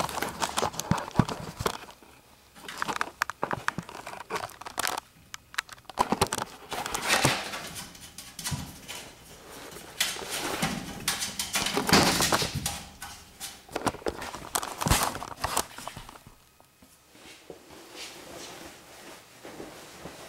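Irregular rustling, scraping and knocking from hands and gear working at a garage door roller to free a trapped skunk, in bursts with short pauses, quieter near the end.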